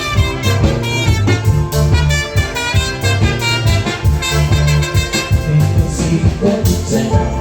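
Live band playing an instrumental passage with no singing: a steady beat and a prominent bass line under melodic instruments.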